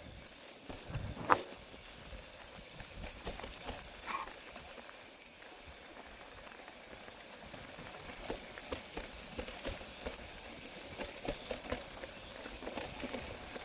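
Irregular crunching and rattling, snow and gear jostled by movement along a snowy trail.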